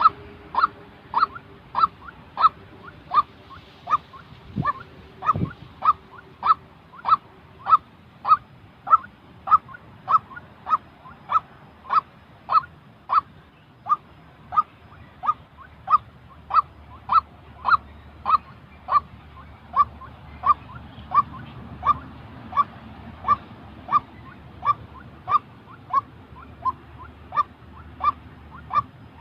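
White-breasted waterhen calling, a single short note repeated steadily about one and a half times a second.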